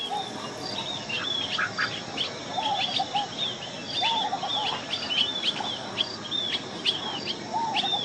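Birds calling in quick succession: many short, high chirps, several a second, over a lower warbling call that comes and goes about four times.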